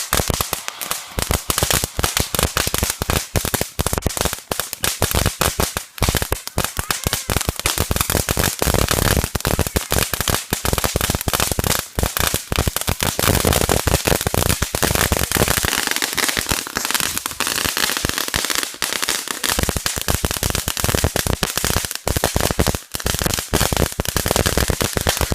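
Firecrackers going off in a rapid, unbroken string of sharp pops and bangs, many a second, with no let-up.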